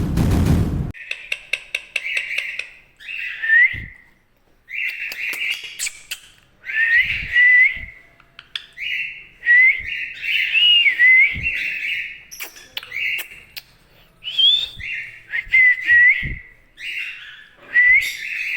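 Indian ringneck parakeet calling in a run of about a dozen short, raspy calls, many ending in a quick whistled glide, with soft clicks between them.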